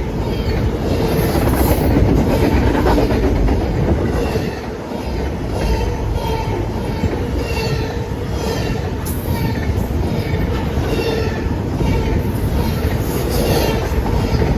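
Train cars rolling past close by: a steady heavy rumble of wheels on rail with an even, repeating clack and short high wheel squeals.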